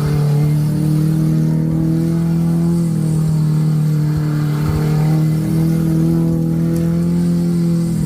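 Chevrolet Chevette's 1.6 OHC four-cylinder engine running at steady revs, its pitch rising and falling slightly a few times.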